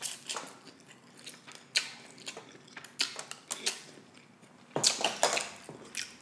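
Close-miked chewing of a mouthful of instant noodles: a string of wet mouth clicks and smacks, louder and denser about five seconds in.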